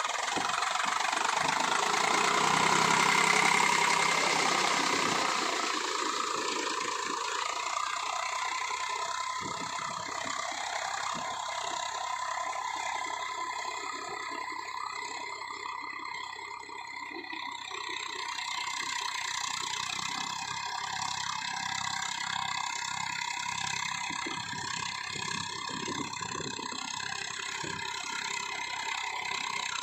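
Eicher 485 tractor's diesel engine running steadily, a little louder for the first few seconds and then settling to an even hum.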